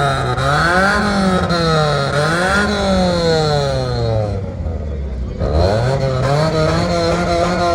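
A vehicle engine being revved. Its pitch rises and falls twice, drops back low and quieter for about a second past the middle, then climbs again and holds high near the end.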